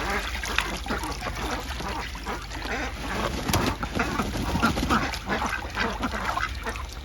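Ducks quacking while they bathe and splash in a small pool of water.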